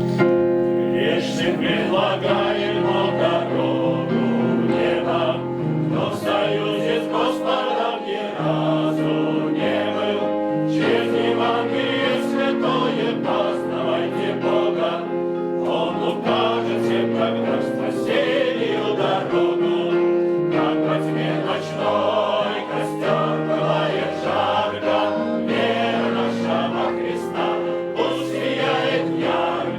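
Music: a choir singing a Christian spiritual song in sustained chords.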